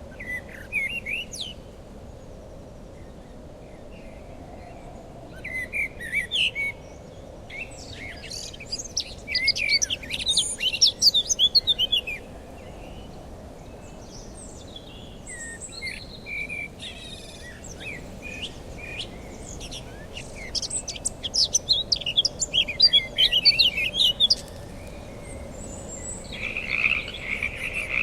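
Wild birds singing in bursts of quick chirps and warbles over a faint steady hiss. Near the end a continuous trilling chorus of frogs starts.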